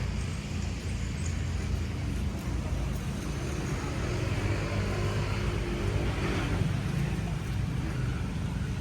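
A motor vehicle drives past, its engine hum swelling from about four seconds in and fading again near the end, over a steady low rumble of road traffic.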